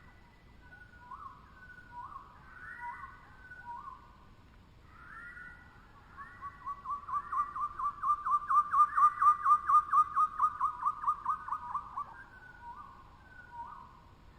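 A bird whistling clear notes: a few short separate whistles, then a long rapid series of about four whistles a second that swells and fades, then a few more short whistles near the end.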